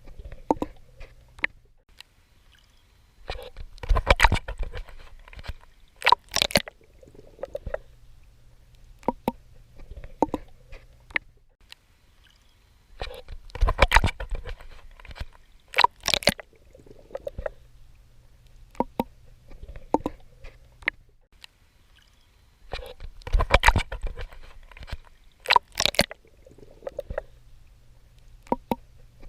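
Swimming in the sea: water sloshing and splashing with each stroke, in clusters that come back about every ten seconds, with a low steady hum in the quieter stretches between them.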